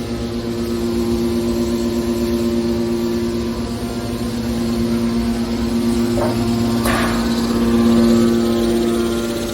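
Scrap metal baler's hydraulic power unit running with a steady, pitched hum. A brief rush of noise comes about six seconds in and a louder one about seven seconds in.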